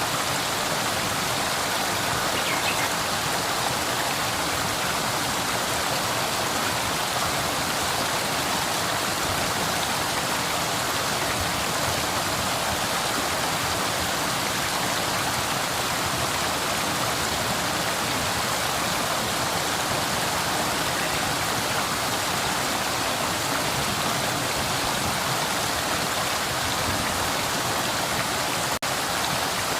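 River water flowing in a steady, even rush, with a momentary dip in level near the end.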